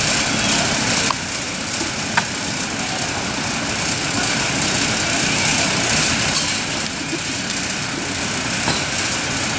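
A small motor vehicle's engine running steadily, with a constant rushing noise.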